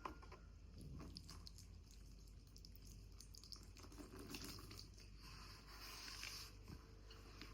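Near silence: a faint low hum with scattered small clicks and soft handling noises.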